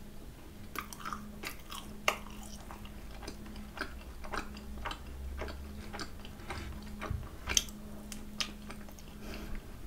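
Close-miked chewing of a thick-filled macaron: wet mouth clicks and small crackles at irregular intervals, with a few sharper clicks standing out.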